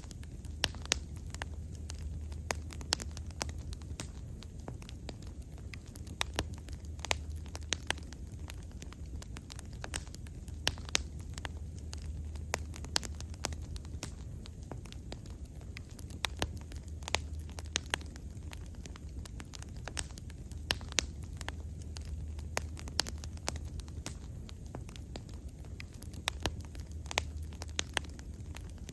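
Wood bonfire crackling, with frequent irregular sharp pops and snaps over a low steady rumble.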